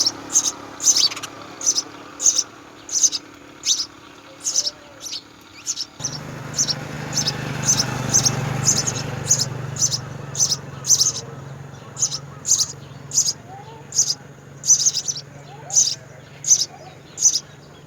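House sparrow chirping: short, high single chirps repeated steadily at about two a second. A low background rumble rises and fades in the middle.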